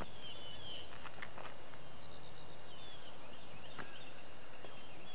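Birds chirping in short, repeated, slightly falling notes over a steady background hiss, with a few faint clicks.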